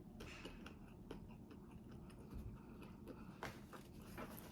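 Faint close-up chewing of a soft corn-tortilla ground-beef taco, with scattered small mouth clicks.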